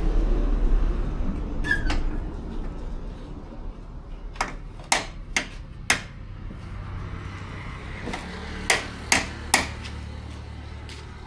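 Sharp knocks of a hand tool striking metal, about four in quick succession around the middle and another four near the end, as a motorcycle's chain is being adjusted. A low traffic rumble fades out over the first couple of seconds.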